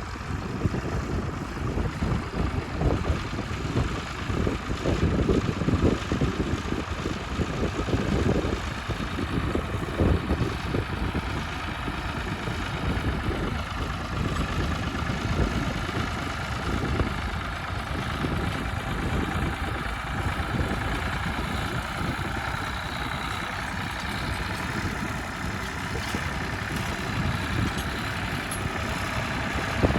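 Heavy farm vehicle engine running steadily, with a dense low rumble that pulses unevenly.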